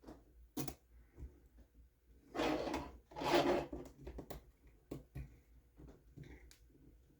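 Small plastic parts and tools being handled during hand assembly of a 1/24-scale RC truck: scattered light clicks and knocks, with two short rubbing scrapes about two and a half and three and a half seconds in, the loudest sounds.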